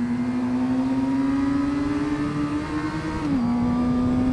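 2009 Suzuki GSX-R600's inline-four engine pulling under throttle, its pitch slowly rising, then dropping sharply a little over three seconds in as it changes up a gear, with steady wind rush.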